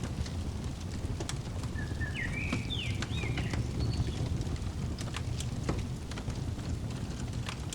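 Wood fire crackling, with scattered sharp pops over a steady low rumble. Several quick bird chirps come about two seconds in.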